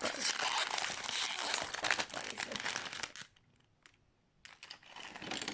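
LEGO minifigure packaging crinkling and being torn open by hand for about three seconds. It goes quiet for about a second, then crinkles faintly again near the end.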